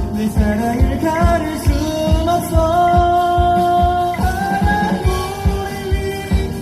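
Pop band playing a Korean pop song, with a steady drum beat under long held, sliding melody notes and singing.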